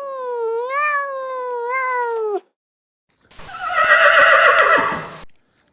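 An animal's long, drawn-out pitched call with slight rises and falls in pitch, cutting off about two and a half seconds in. After a second of silence comes a second, harsher and rougher animal call lasting about two seconds.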